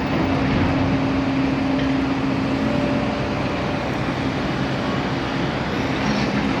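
Steady rumble of vehicle engines and traffic, with a low, even hum running through it.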